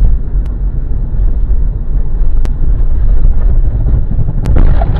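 Loud, continuous low rumble of a heavy truck's engine, blurred by wind noise on the microphone, with a few faint clicks.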